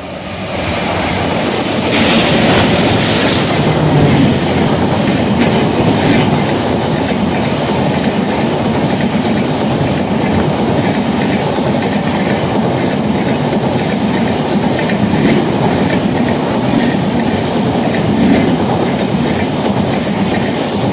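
Passenger express hauled by twin WDG3A diesel locomotives passing at speed close by. The sound swells sharply over the first two seconds, then holds steady as the coaches rush past with a clatter of wheels over the rails.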